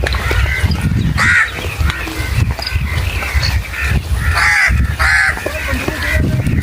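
A flock of birds calling harshly several times, with the loudest calls about a second in and twice near the end, over a steady low rumble.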